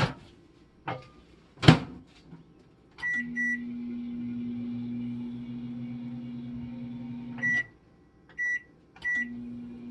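Microwave oven being operated: a few clicks and a loud clack, then two keypad beeps and the oven's steady low hum as it runs. About four seconds later a beep comes and the hum stops. Two more beeps follow, and the hum starts again near the end.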